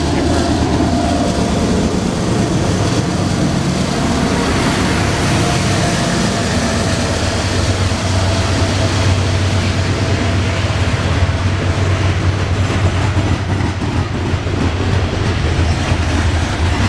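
Coal train passing close by: the diesel locomotives go past at the start, then a long string of coal hopper cars rolls by with a steady rumble that grows heavier about eight seconds in. A thin steady whine fades out about twelve seconds in.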